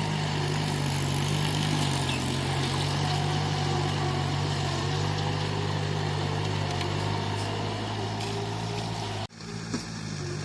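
Bulldozer's diesel engine running steadily under working load, with faint metallic squeals above it. Near the end the sound drops out abruptly for an instant and comes back a little quieter.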